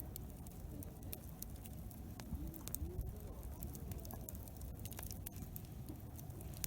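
Wood campfire crackling, with scattered small pops over a low background rumble of a busy campsite.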